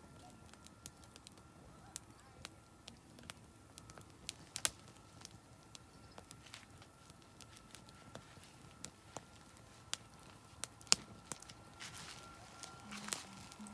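Oak firewood burning in a campfire, crackling with sharp pops at irregular intervals, one much louder pop late on.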